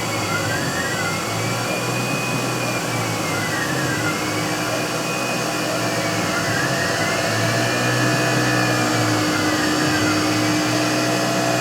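CNC mill thread-milling an M18 x 1 thread with a single-flute 3/8-inch thread mill. The spindle and cut make a steady machine noise with a whine that rises and falls about every three seconds as the tool circles.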